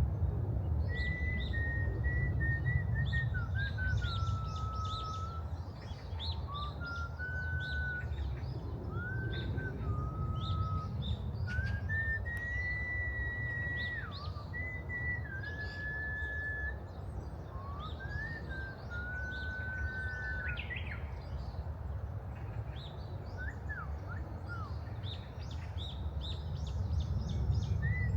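Several birds chirping, with one clear whistled call repeated in held notes that glide up then level off, over a steady low rumble.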